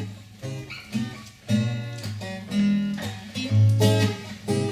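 Acoustic guitar playing the introduction to a short song: chords struck roughly once a second, their notes ringing on between strokes.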